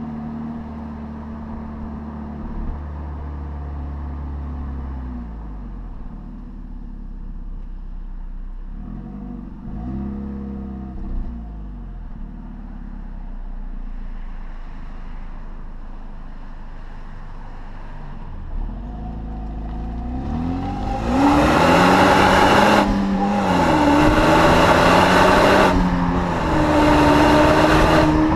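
Hyundai Genesis Coupe 2.0T's turbocharged 2.0-litre four-cylinder through its stock exhaust, idling with a couple of light blips of the throttle, then revved hard three times near the end, each rev held for a second or two.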